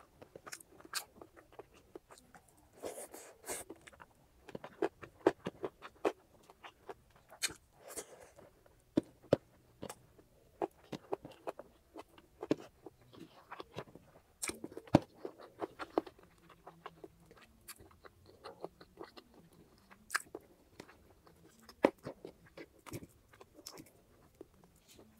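Close-miked eating sounds: chewing and biting into grilled chicken, with many sharp, irregular wet mouth clicks and crunchy crackles.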